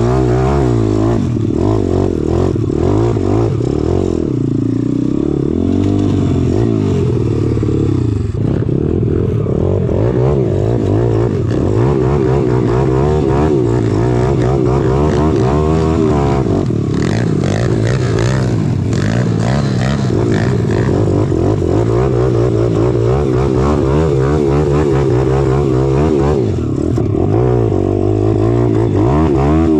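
Pit bike's small single-cylinder engine ridden hard, revving up and down with the pitch rising and falling again and again.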